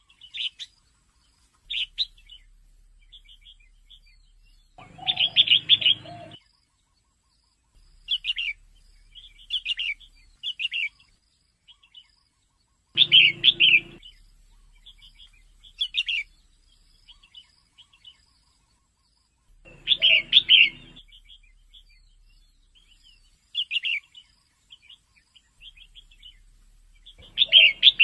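Female red-whiskered bulbul calling: short bursts of bright chirps, with a louder phrase about every seven seconds and softer chirps between.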